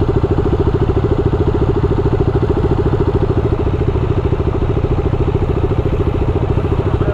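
Triumph Daytona 675 sport bike's inline three-cylinder engine running steadily, with an even, rapid exhaust pulse that holds the same pitch throughout.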